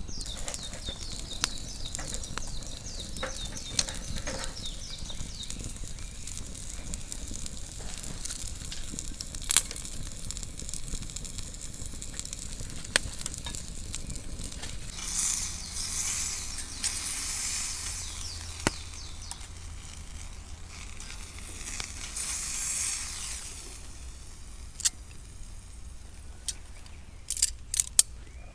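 Meat sizzling on a grill over a fire pit, with scattered sharp pops and crackles. The sizzle swells louder twice, about halfway through and again a few seconds later.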